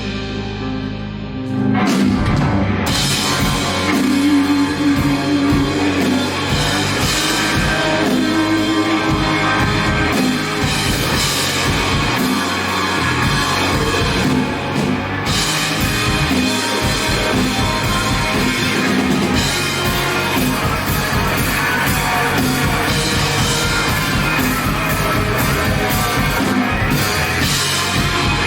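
Indie rock band playing live: electric guitars, bass and drum kit in an instrumental passage without vocals. The playing is sparser for the first second or two, then the full band comes in loud.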